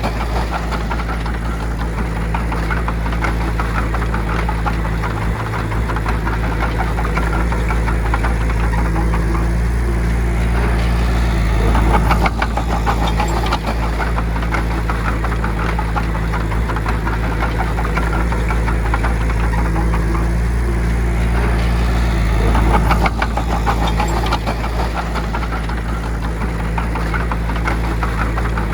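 Bulldozer's diesel engine running steadily under load, with a fast clatter through it, briefly pulling harder twice.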